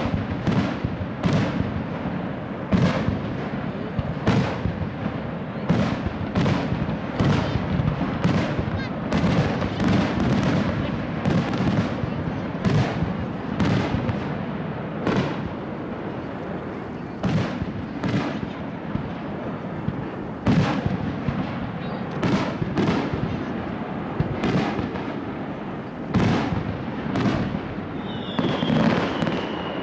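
Aerial firework shells bursting in quick succession, a sharp bang about every half second to second over a continuous rumble and crackle. A short high falling whistle sounds near the end.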